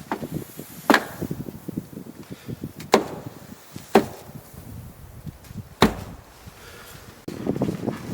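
Axe chopping firewood: four sharp wooden strikes, spaced one to two seconds apart.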